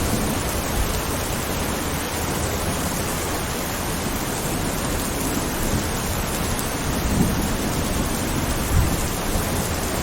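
Steady rain with distant thunder rumbling low underneath, swelling briefly around the middle and again near the end.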